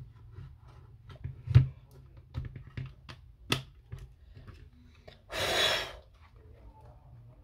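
Scattered clicks and knocks of small hard parts and tools being handled while an Apple Time Capsule is taken apart. About five seconds in there is one short burst of rushing noise.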